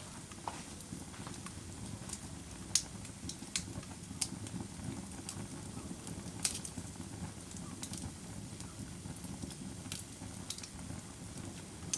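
Wood fire burning in a fireplace: a steady low rumble of flames with irregular sharp crackles and pops, the loudest pops about three and six and a half seconds in.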